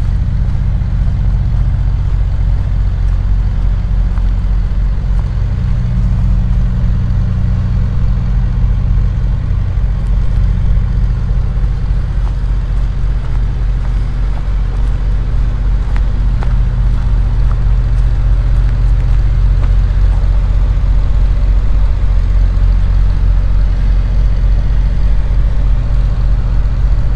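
A vehicle engine running steadily: a low, even rumble that grows slightly louder in the second half.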